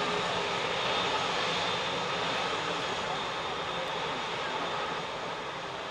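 Boeing 737-800's twin CFM56-7B turbofan engines at takeoff thrust, a steady jet noise with faint whining tones, slowly fading.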